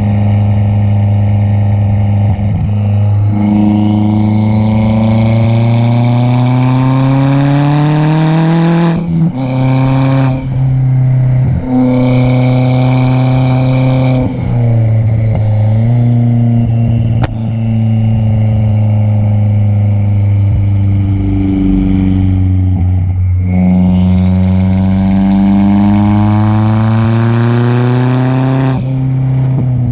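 Ford Fiesta ST's turbocharged engine, breathing through an MBRP cat-back exhaust and catless downpipe, pulling hard through the gears. Its pitch climbs steadily, drops suddenly at each upshift, and holds steady between pulls. The longest pull comes near the end, followed by a shift.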